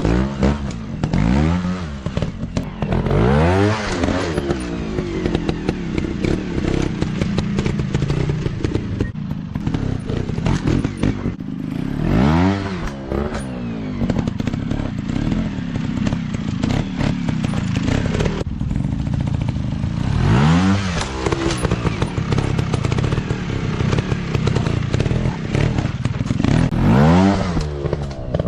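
Dirt bike engines running loudly, revving up and dropping back in sharp bursts about five times, with clattering and thumps in between.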